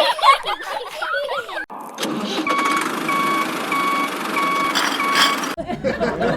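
A vehicle's reversing alarm beeping five times, about one and a half beeps a second, over steady engine noise. A high voice is heard before the beeping starts.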